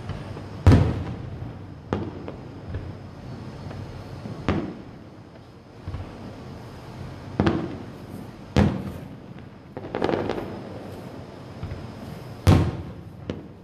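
Aerial firework shells bursting: about eight sharp booms at uneven intervals, each trailing off in a short echo. The loudest come about a second in and near the end.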